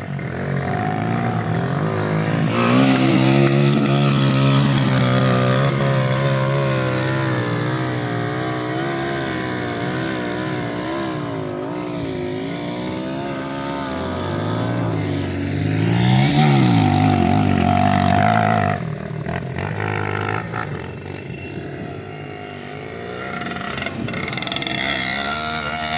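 Motorcycle engine running while riding, its pitch rising and falling several times with the throttle, climbing sharply and dropping back about two-thirds of the way through, over steady rushing noise.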